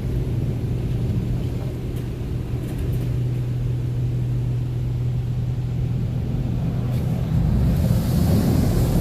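Automatic car wash machinery running, heard from inside the car: a steady low hum under rushing noise, which grows louder about eight seconds in.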